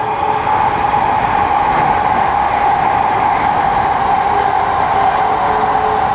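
Kounotori limited express electric train running through the station at speed without stopping. It makes a loud, steady rush of wheels on rail, with a strong steady band of sound running through it.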